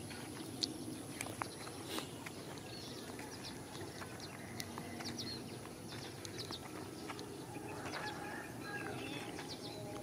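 Rural outdoor ambience with small birds chirping in short, scattered calls over a steady background hiss and a faint high whine.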